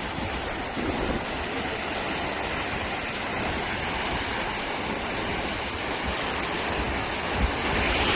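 Sea surf washing onto a beach, a steady rush of breaking waves that swells louder near the end.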